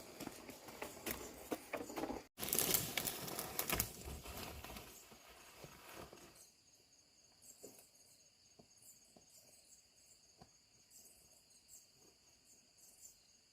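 Clattering work noise, many sharp clicks and knocks, for the first few seconds, cut off suddenly at an edit. From about six seconds in, a quiet outdoor background of insects trilling steadily, with a few faint ticks.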